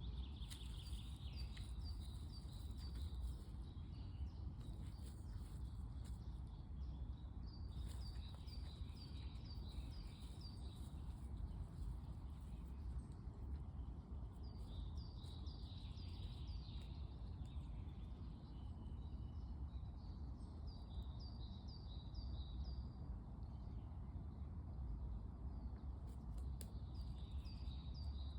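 A songbird singing short phrases of quick, high, evenly spaced notes, repeated every few seconds, over a steady low rumble.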